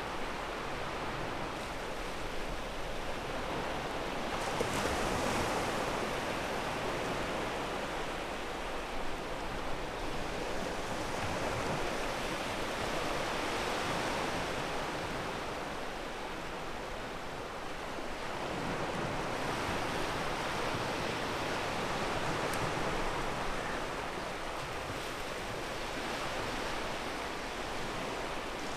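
Ocean waves washing onto a pebble beach: a continuous rush of surf that swells and eases every several seconds.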